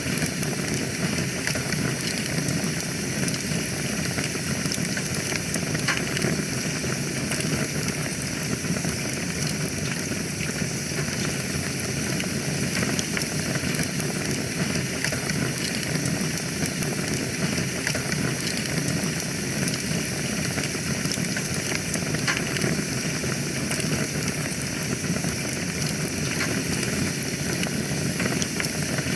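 Wood fire burning in a fireplace: a steady hissing rush with many small crackles and pops scattered throughout.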